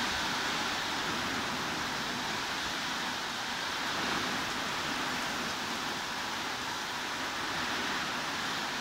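Heavy rain falling, a steady even hiss with no separate drops or other sounds standing out.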